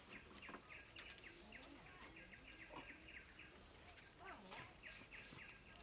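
Faint outdoor ambience with a bird giving a rapid run of short high chirps, about five a second, that stops a little past halfway, and a few faint clicks.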